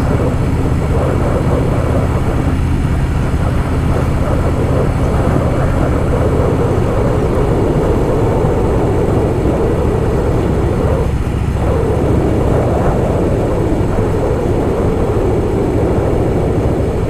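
Harley-Davidson Softail Fat Boy's V-twin engine running steadily at cruising speed, heard from the riding bike.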